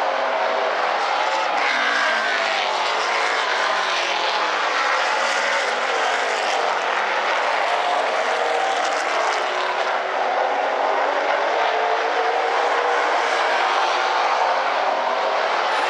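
Pack of super late model stock cars with V8 engines racing at speed around a short oval track. Several engines sound at once, their pitch shifting as the cars pass.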